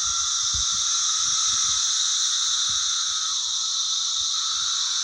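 Cicada chorus: a steady, high-pitched buzz.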